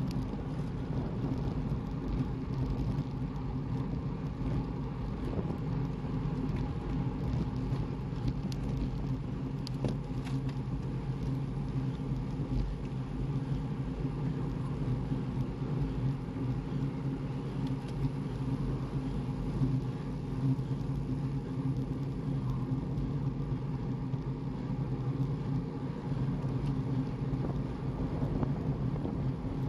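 Motor vehicle engine running at a steady pace, a constant low drone over road and wind noise.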